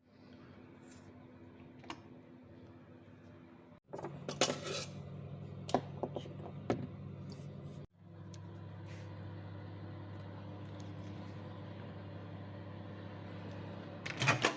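Scattered clinks and clicks of cutlery against dishes over a steady low hum. The clinks cluster between about four and seven seconds in, with a louder burst near the end, and the hum changes abruptly twice.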